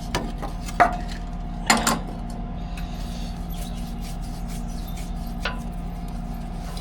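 A few metallic clinks and knocks as a truck valve's fittings are handled and pushed into place, over a steady low hum.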